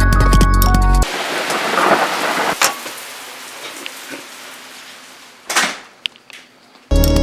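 Thunderstorm: a rumble of thunder swells about a second in and slowly fades under the hiss of rain, with a sharp crack partway through and a few short bursts near the end. Electronic music plays at the start and comes back in just before the end.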